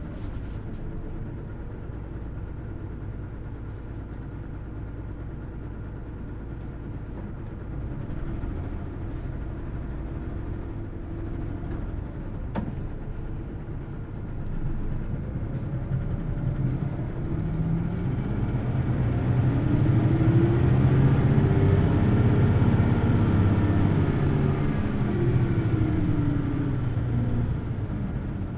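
Hino Blue Ribbon City Hybrid city bus's diesel engine heard from on board: low and steady at first, then from about halfway it revs up to high rpm, holds near the top and falls back near the end, with a faint high whine following the revs. A single sharp click about twelve seconds in.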